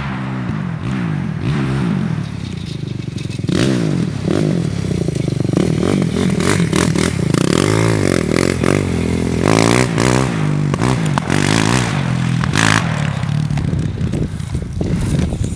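Four-wheeler (ATV) engine revving up and down repeatedly, its pitch rising and falling, louder from about three and a half seconds in, with scraping and clattering over it.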